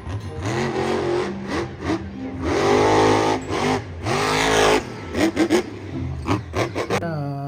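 Car engine revving up and down several times, loudest in the middle, over background music.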